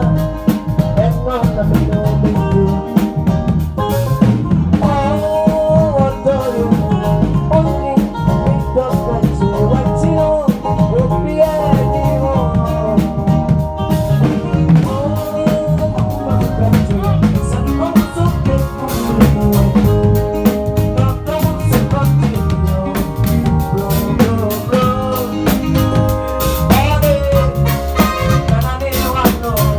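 A live band playing at a sound check: a drum kit keeping a steady beat under bass and a lead melody line that slides in pitch.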